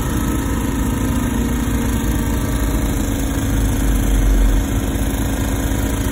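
Wacker Neuson ET145 excavator's diesel engine running steadily, with a low rumble that swells for about a second about four seconds in.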